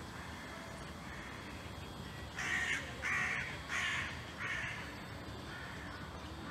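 A bird calling: four harsh calls in a row, about two-thirds of a second apart, followed by a couple of fainter ones.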